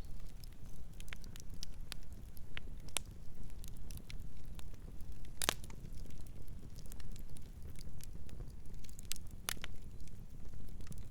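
Campfire burning: wood crackling and popping in irregular sharp snaps over a steady low rumble of the flames, with one louder pop about halfway through.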